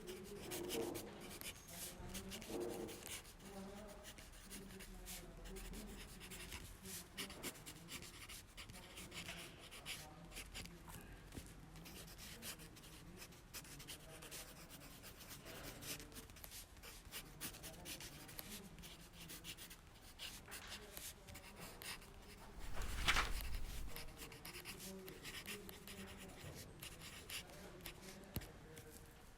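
Library study ambience: pens scratching on paper and small rustles throughout, with faint hushed voices murmuring in the background. One louder bump comes about three-quarters of the way through.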